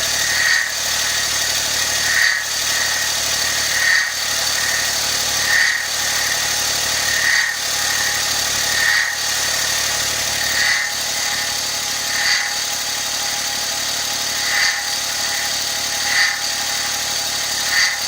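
Suzuki Wagon R (MH21S) three-cylinder engine running, with a short, high chirp repeating evenly about every 1.7 seconds. The chirp keeps the same beat whatever the engine speed. It is an unexplained abnormal noise that began after a sudden animal-like screech from the engine while driving.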